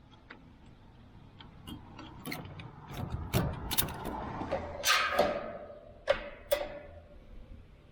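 Irregular metallic clicks and clinks, the sound of metal parts or tools being handled, thickest in the middle, some of them ringing briefly.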